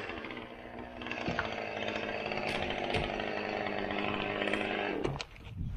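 Chainsaw engine running at a steady high speed from about a second in, then cutting off abruptly just after five seconds.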